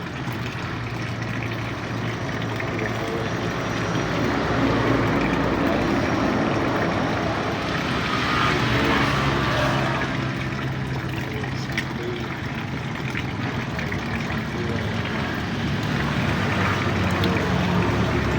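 An engine running steadily, with a noisy rush over it that swells for a couple of seconds near the middle.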